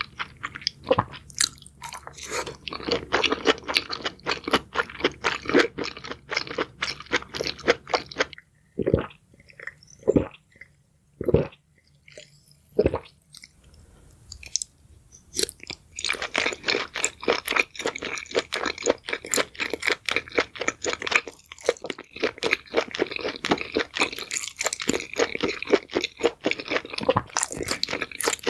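Someone chewing crunchy food close to the microphone: rapid, dense crunching. About a third of the way in it slows to a handful of separate, heavier crunches, then thickens into fast crunching again for the second half.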